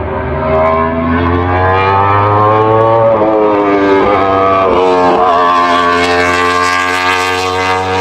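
Competition vehicle's engine accelerating hard, its pitch climbing and then dropping sharply at several quick upshifts between about three and five seconds in, before holding a steadier note.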